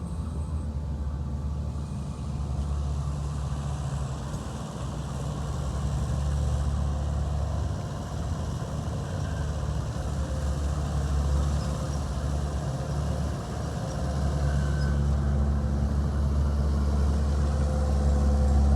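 Heavy diesel engine of an earthmoving machine running steadily, its low hum shifting with load and growing louder about fourteen seconds in.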